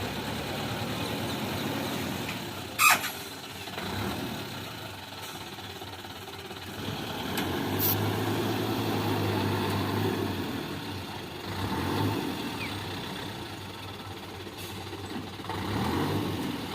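Kubota track combine harvester's engine running steadily, growing louder from about eight seconds in for a few seconds before easing off. A sharp click sounds once about three seconds in.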